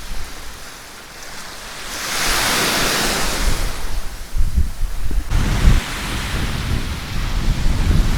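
Sea waves on a beach: a wave breaks and washes up the shore with a swelling hiss about two seconds in. Wind buffets the microphone with low rumbling gusts through the second half.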